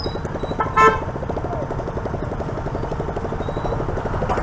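Motorcycle engine running steadily under way, with a short vehicle horn toot just under a second in.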